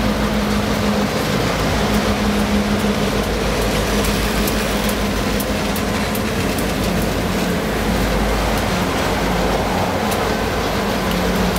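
Freight train rolling past close by: a diesel locomotive engine running with a steady low hum and rumble, and scattered light clicks from the wheels on the rails.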